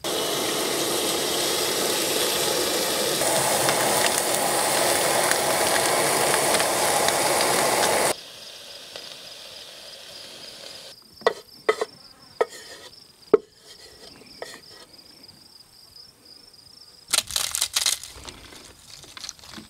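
Sliced onions and bell peppers sizzling in a pot on a propane camp stove, getting louder and brighter about three seconds in. It cuts off about eight seconds in to a much quieter stretch: a faint steady insect trill, a few sharp taps and clicks, and a short rustling burst near the end.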